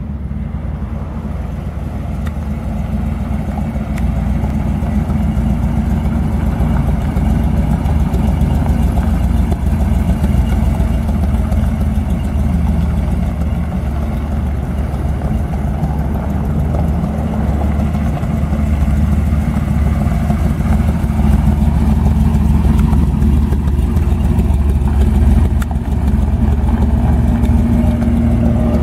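Ford 460 big-block V8 of a custom pro street Bronco running at idle and low speed, a loud, steady, deep engine note.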